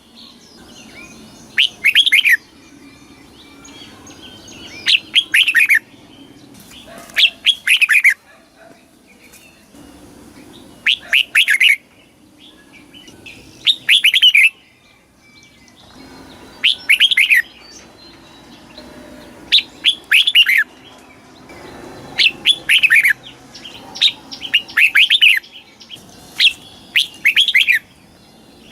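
Red-whiskered bulbul singing: short, loud phrases of quick whistled notes that slide downward, repeated about every two to three seconds, roughly ten phrases in all.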